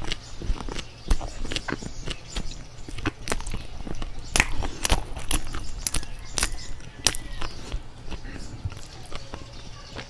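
Close-miked chewing of a bite of soft ube bread: irregular wet mouth clicks and smacks.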